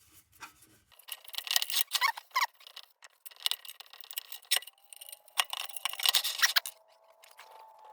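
Bristle brush scratching and scrubbing over a tin lantern body in short, uneven strokes, working a liquid treatment into its seams and cracks.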